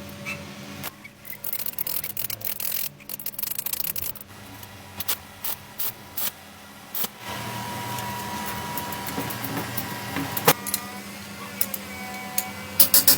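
Hand tools and metal parts clinking and clicking in irregular taps, over a steady hum.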